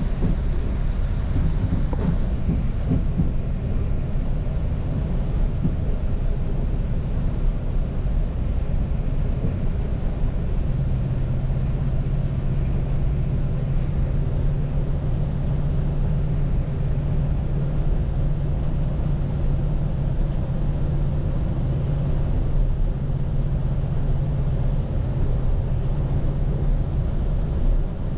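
Northstar commuter train running: a steady low rumble, with a low hum that sets in about eleven seconds in and fades near the end.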